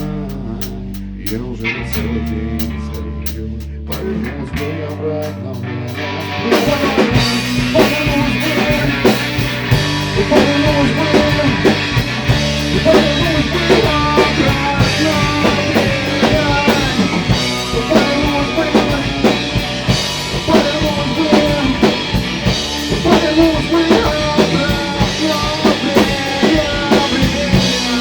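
Rock trio playing an instrumental passage on electric guitar, bass and drum kit. The playing is sparser at first, and about six seconds in the full drum kit comes in and the band gets louder and denser.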